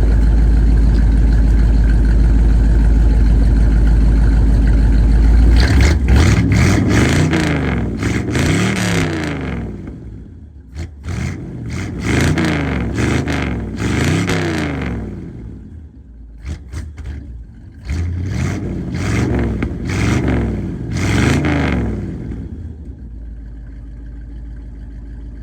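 1967 Ford Galaxie 500 engine running through a new 2.5-inch exhaust routed out the back, still only semi-fitted. It idles with a steady low rumble, then from about six seconds in it is revved in a series of quick blips, each rising and falling, before settling back to idle near the end.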